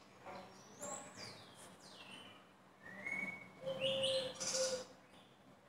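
A bird chirping: several quick, falling whistles, then a held whistled note, and the loudest calls a little under four seconds in.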